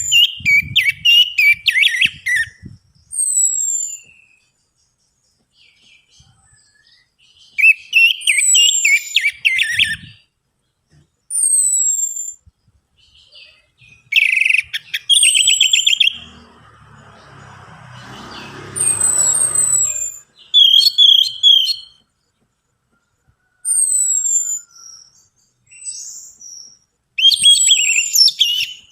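Orange-headed thrush song: short phrases of high, falling whistles mixed with rapid chattering notes, repeated every few seconds. A few seconds of rustling noise with a low rumble come about midway.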